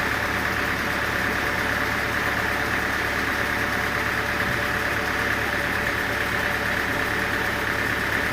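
Sawmill machinery running steadily: a constant engine-like drone with a steady high whine that does not change in pitch or level.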